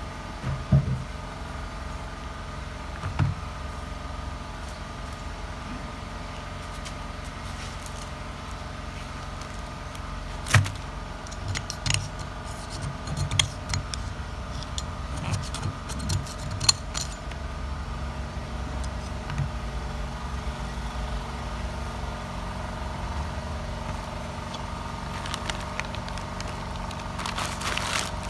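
Scattered metallic clinks and knocks, as of tools and metal parts being handled, over a steady mechanical hum. The knocks come in a cluster about ten to seventeen seconds in.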